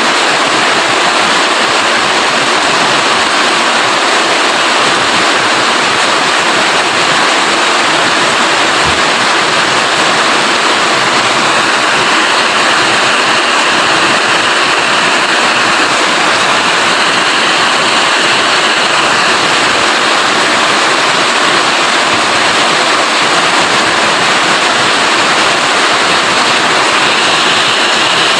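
Steady heavy rain, an even rushing hiss that holds constant throughout.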